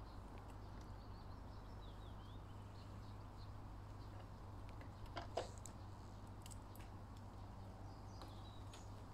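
Quiet garden ambience: faint small-bird chirps and a steady low hum, broken by a few sharp clicks and taps about halfway through.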